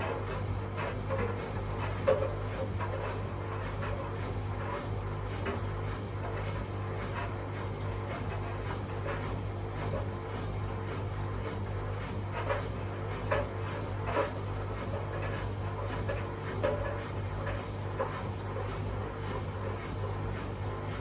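Two Hotpoint Aquarius washing machines running at the start of a fast spin cycle: a steady low hum with irregular soft knocks and swishes as the drums turn their light loads of towels.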